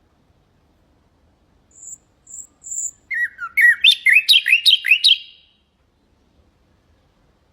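Nightingale singing one phrase: three thin, very high notes, then a fast run of loud down-slurred notes that stops abruptly.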